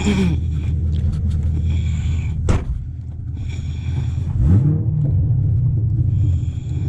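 Straight-piped 6.2-litre LT1 V8 of a tuned C7 Corvette Stingray idling with a deep, steady rumble. The engine note rises briefly about four and a half seconds in, and a sharp click sounds about two and a half seconds in.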